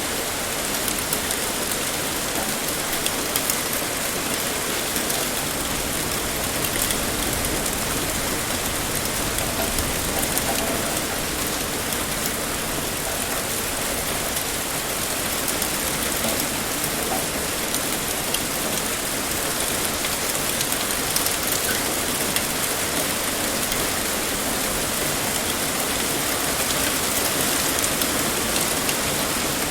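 Heavy rain pouring steadily, with a dense, even hiss and scattered individual drop ticks.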